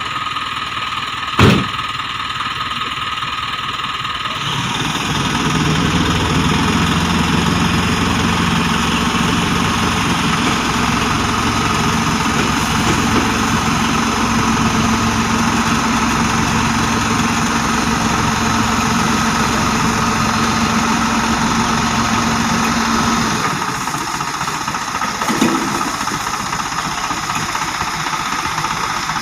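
Heavy-equipment diesel engine running. A few seconds in it is revved up and held steady for about twenty seconds, then drops back to a lower idle. There is a sharp knock about a second and a half in.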